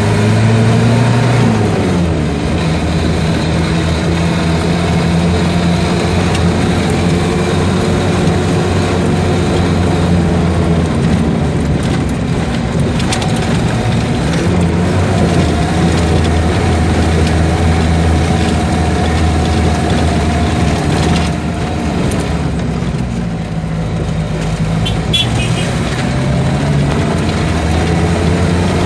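Car engine heard from inside the cabin while driving, its pitch slowly rising and falling with the revs. It eases off a little past two-thirds through and picks up again near the end.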